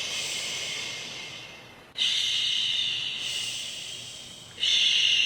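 A woman's voice shushing, long "shhh" sounds repeated about every two and a half seconds, each starting sharply and fading out; a new one begins about two seconds in and another near the end.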